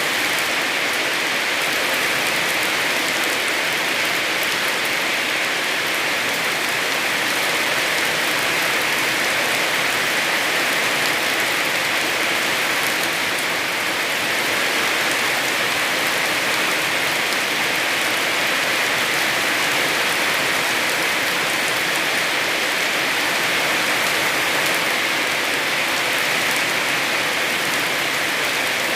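Heavy rain falling steadily: a dense, even hiss of many drops that holds at the same level throughout.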